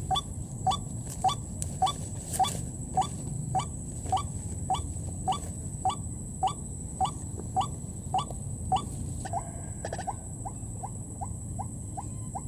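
White-breasted waterhen (ruak-ruak) calling: a series of short rising notes, a little under two a second, which give way about nine seconds in to quieter, quicker notes about three a second. A steady high-pitched whine runs underneath.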